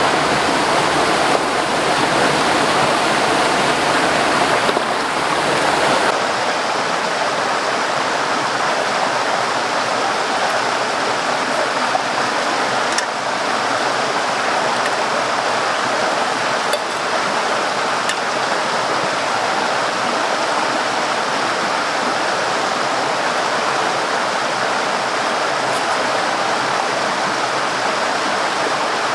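Steady rush of a flowing river. The deep rumble underneath drops away about six seconds in.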